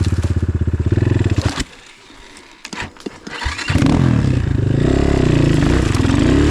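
Enduro motorcycle engine idling, then cutting out about a second and a half in. After a couple of seconds of quiet with a few clicks, it fires up again near the middle and is revved up and down.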